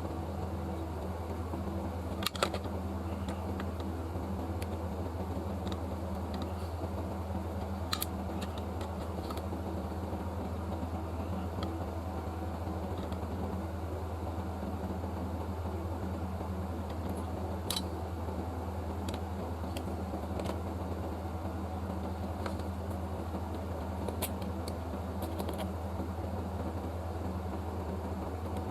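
Steady low mechanical hum, like a fan running, with a few short light clicks and taps from small tools at scattered moments.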